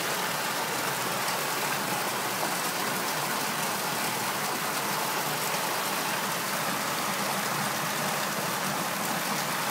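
Heavy torrential rain falling steadily, a dense even hiss of rain on surfaces and running water.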